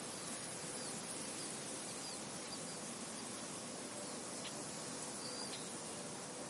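Steady wind blowing through a field, an even rustling hiss, with small birds giving short, high chirps scattered through it.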